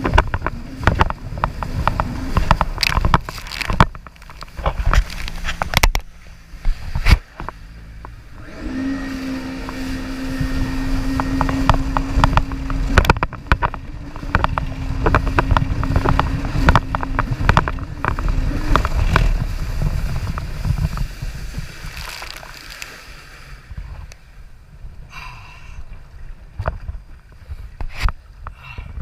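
Jet ski engine running with a steady hum, amid frequent sharp thuds and rushing noise. The engine tone is clearest midway and fades out in the last few seconds.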